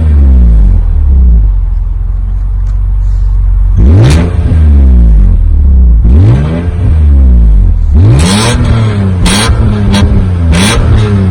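BMW E46 M3's 3.2-litre S54 straight-six idling between sharp throttle blips. It is revved about five times, each rev rising quickly and falling back to idle, the last three in quicker succession.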